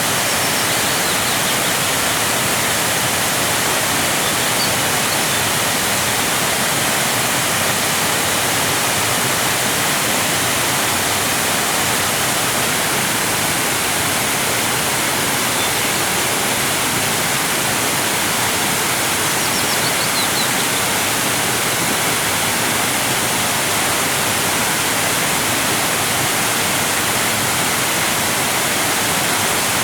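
Waterfall: water cascading in a loud, steady rush. A few faint chirps at about the 20-second mark and again near the end.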